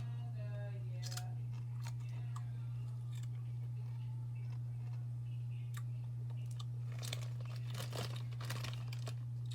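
A person chewing crunchy chips: scattered crisp crunches, coming thicker near the end, over a steady low hum.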